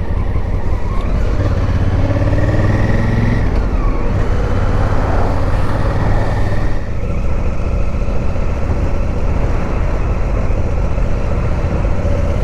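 Honda Africa Twin motorcycle being ridden: steady engine and road noise, the engine pitch climbing for the first few seconds before settling into a steady cruise.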